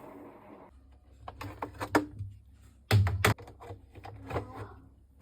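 Washing machine being handled: a run of light clicks and knocks over a low steady hum that starts about a second in, with a louder short clatter near the middle.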